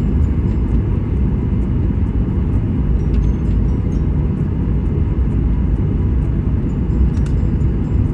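Airliner cabin noise heard from inside the cabin: a steady, loud low rumble of the jet engines and airflow, with a few faint high ticks.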